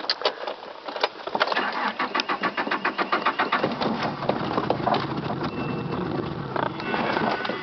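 Nissan Pulsar on a cold start: the starter cranks the engine in even pulses, and about halfway through the sound turns steadier as the engine catches and runs.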